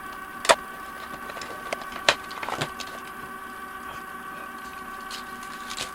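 A steady machine-like hum of several fixed pitches that starts and stops abruptly, with sharp clicks about half a second in, around two seconds in and again shortly after.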